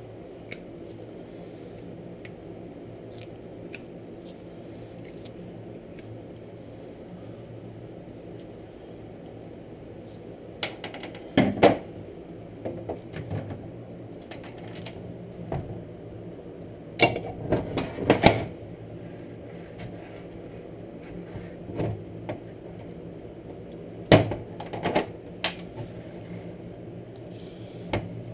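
Scattered clicks and knocks of small metal parts and hand tools being handled during work on an ATV recoil pull starter, in a few short clusters over a steady low hum.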